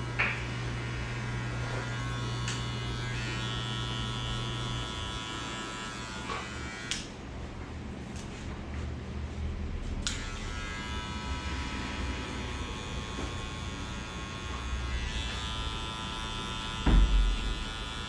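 Electric hair clippers buzzing steadily while cutting a fade, dropping out for about three seconds in the middle before running again. A dull knock near the end is the loudest moment.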